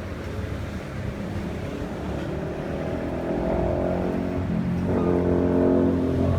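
Nissan Teana J32's running car, with a pitched whine that comes in about three seconds in and grows louder toward the end.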